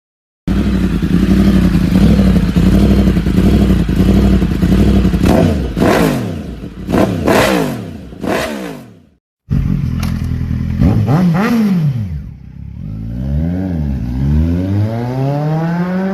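Superbike exhaust running fast and steady, then revved several times in quick blips that rise and fall sharply. After a brief cut, a second superbike is revved in repeated rising and falling sweeps.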